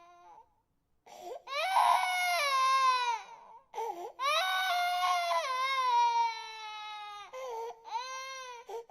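Infant crying in long wails, each falling in pitch, after a brief silence at the start; two long cries are followed by shorter ones near the end.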